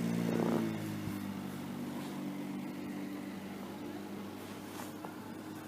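An engine running at a steady, even pitch: louder for the first moment, then settling into a quieter steady hum.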